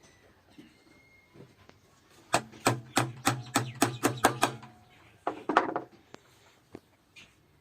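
Hammer blows on wood in a quick run of about a dozen strikes, roughly five a second, beginning a little over two seconds in. A shorter, rougher knocking follows near the end.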